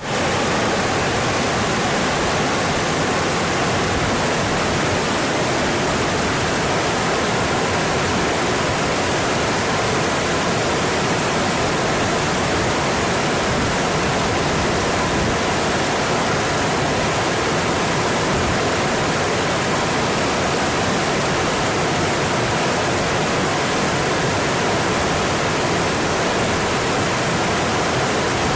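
Mountain stream rushing over its bed in a steady, dense wash of water noise.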